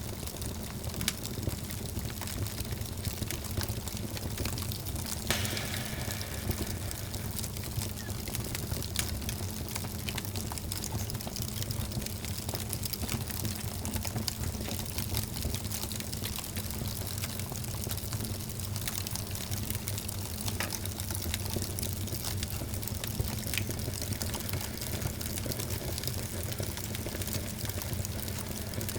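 Wood fire burning in a fireplace: a steady low rumble of flames with a constant scatter of small crackles and pops, and a hiss for a few seconds about five seconds in.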